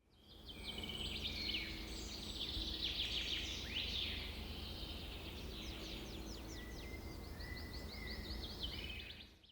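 Several birds chirping and trilling over a steady low outdoor rumble, fading in at the start and out at the end.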